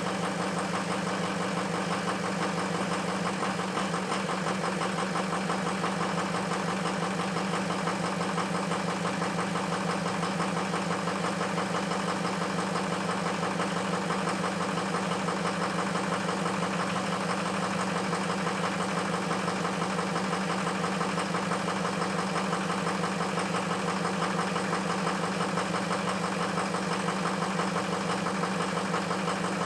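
Ford F-350 engine idling steadily and roughly after a cold start, running with two bad injectors.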